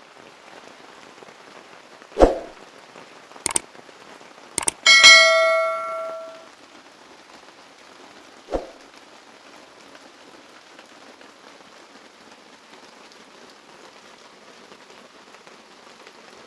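Steady rain falling, with a few knocks and clicks and one loud metallic clang about five seconds in that rings on for about a second and a half, like a metal vessel or sheet being struck.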